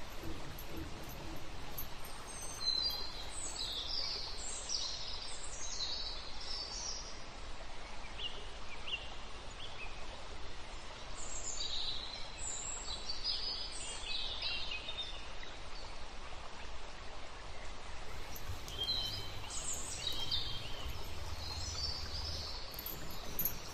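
Birds chirping in three short bursts of quick, high notes over a steady outdoor background hiss.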